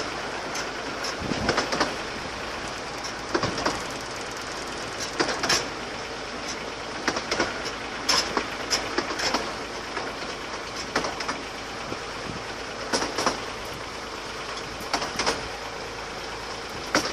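Wheels of a 15-inch-gauge miniature railway carriage running along the track: a steady rolling rumble broken by frequent sharp clicks and knocks, often in quick pairs, as the wheels pass over rail joints.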